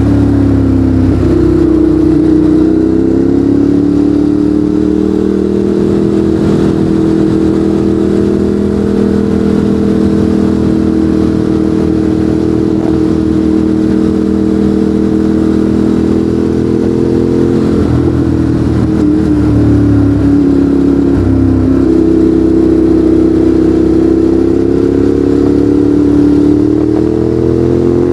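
Ducati Monster 821's V-twin running loud through a Termignoni exhaust under way, its pitch mostly steady with gentle rises. Twice, about two-thirds of the way through, the note wavers and drops briefly before settling again.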